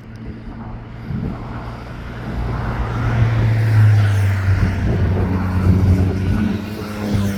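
Motor vehicle passing on the road close by: engine and tyre noise builds over the first few seconds and stays loud, over a steady low engine hum.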